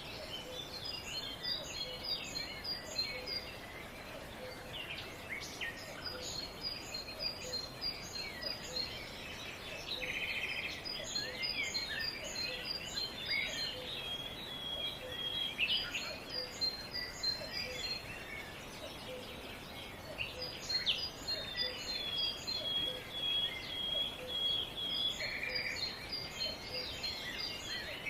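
Several wild birds singing and calling together. A high, rapid chirping phrase comes back every few seconds, mixed with a held whistle and other chirps, over a steady background hiss of outdoor noise.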